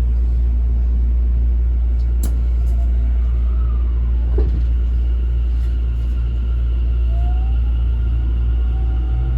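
Cabin sound of a Tokyo Metro 10000 series subway train: a steady low rumble of the running gear, with a faint whine rising about seven seconds in. There is a sharp click about two seconds in and a light knock past the middle.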